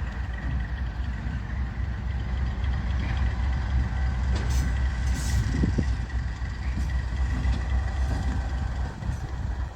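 Freight train locomotive running with a steady low rumble and a steady thin whine, with a few brief high squeaks around the middle.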